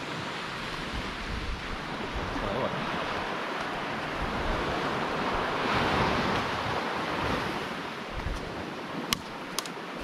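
Surf washing on a beach with wind, swelling about halfway through. Two sharp clicks come near the end.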